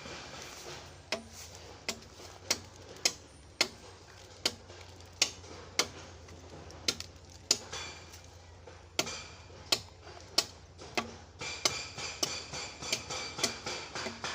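Repeated sharp strikes of a metal tool on something hard, each with a brief high ringing, about one and a half a second; near the end the strikes come faster and softer, about three a second.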